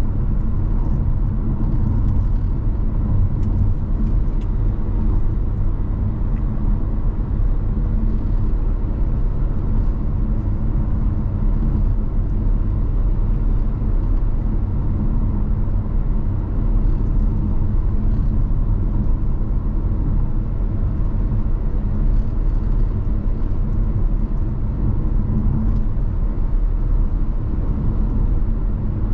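A car driving at steady speed: an even low rumble of engine and tyre noise with a faint steady hum, without changes in pace.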